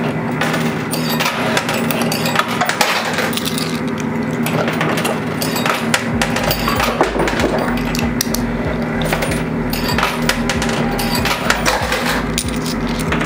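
Quarter coin pusher machine with coins clinking and dropping against one another and the metal shelf. About six seconds in, background music with a low, steady beat comes in under the clinking.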